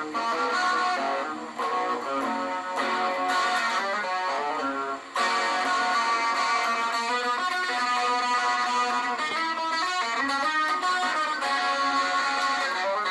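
Electric guitar played through a DigiTech Whammy WH5 in shallow detune mode, giving a shimmering, chorus-like doubled tone over notes and chords. The playing drops out briefly about five seconds in, then comes back on a sharp new strum.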